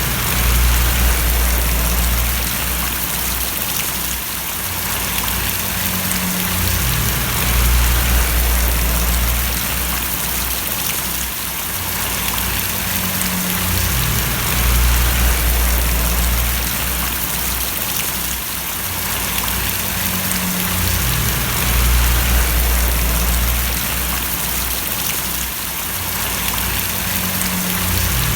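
Steady rain splashing and pattering, a dense even hiss, with a low rumble underneath that swells and fades about every seven seconds.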